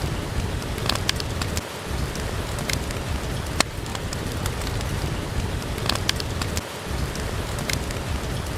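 Steady rain with a low rumble underneath, and scattered sharp pops and crackles from a fireplace. The low rumble dips briefly twice, a little under two seconds in and again near the end.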